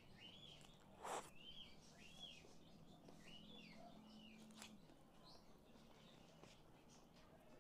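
Faint, repeated chirps of a small bird, short rising-and-falling notes about two a second, stopping about halfway, over a low steady hum. A single soft knock about a second in.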